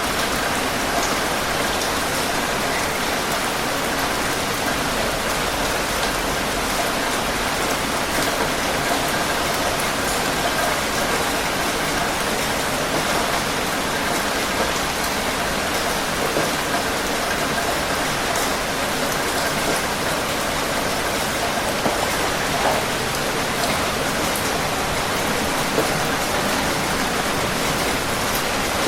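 Steady rain falling, a constant hiss with the patter of individual drops striking a surface.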